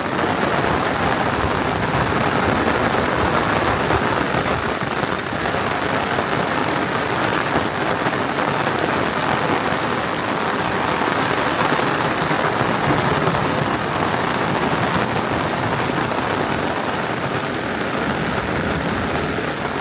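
Heavy rain falling steadily: a loud, dense, even hiss of downpour.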